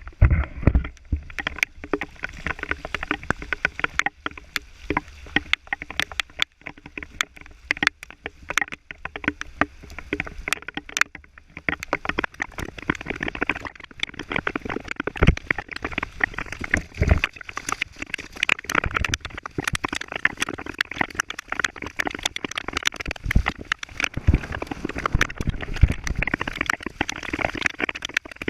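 Heavy rain pouring down, a dense irregular patter of drops striking a hard surface close by over a steady wash of rain and running water.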